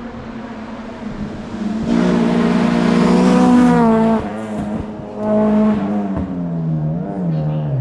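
Race car engine at full throttle going by, its pitch climbing as it accelerates, breaking off briefly about four seconds in, pulling up again, then dropping lower near the end.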